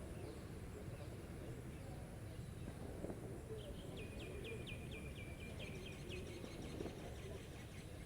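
A small bird calling in a rapid run of short, evenly spaced notes, about five a second, starting about three and a half seconds in and lasting some four seconds. Beneath it is a steady low background rumble.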